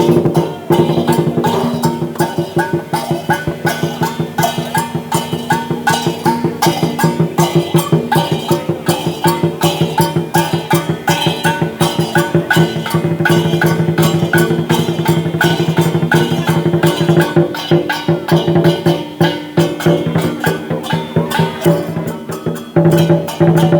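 Lion dance percussion band playing a fast, steady beat of rapid drum strokes over ringing metal tones.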